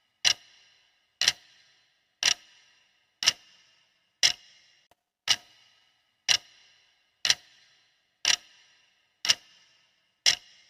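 Clock ticking once a second: a steady run of sharp ticks, each with a short ringing tail.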